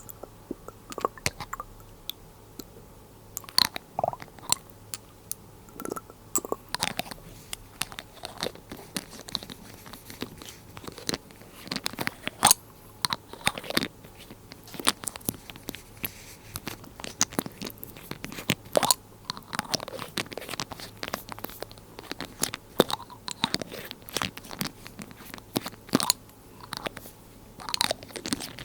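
Glass dropper bottle handled close to the microphone: a rapid, irregular stream of sharp clicks and taps, some ringing briefly.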